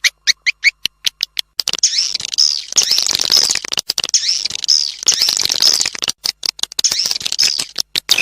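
Recorded swiftlet calls played as a lure sound for swiftlet farming: a fast series of short, sharp high chirps, then from about two seconds in a dense, continuous high twittering.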